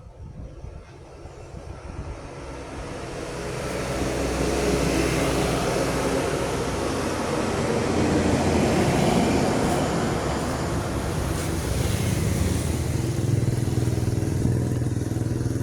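A road vehicle's engine and tyres growing louder over the first four seconds as it comes near, then staying loud and steady.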